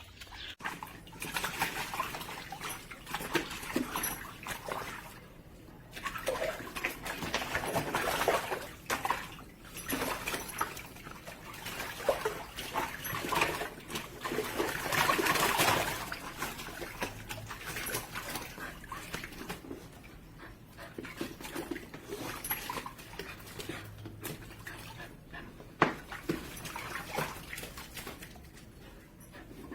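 A dog splashing and moving about in the water of a foldable plastic paddling pool, in irregular surges, loudest about fifteen seconds in.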